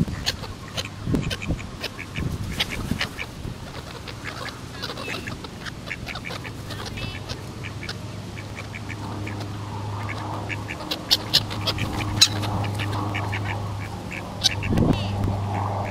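Ducks quacking in a flock, with many short sharp calls and a steady low hum behind them; louder near the end.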